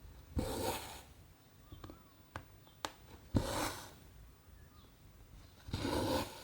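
Cotton embroidery thread drawn through 14-count cross-stitch canvas: three rasping pulls of about half a second each, a few seconds apart, with small sharp clicks of the needle between them.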